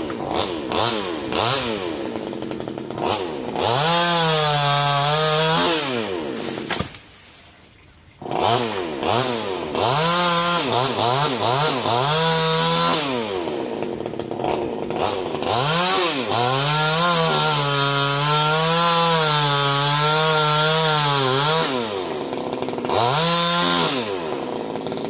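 Small top-handle two-stroke chainsaw revving up to full speed in several long bursts and dropping back to a low idle between them, with a brief quiet gap about seven seconds in.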